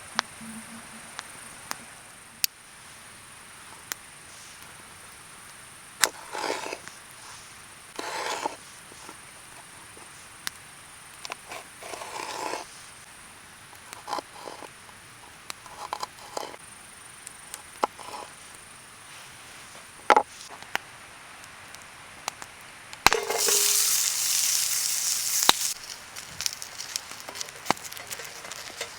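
Wood campfire crackling with scattered sharp pops, over faint steady insect trilling and a few brief rustles. About 23 seconds in, a loud hiss starts and lasts about three seconds.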